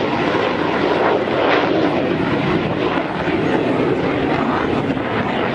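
Airplane engine noise: a steady rush without a clear tone.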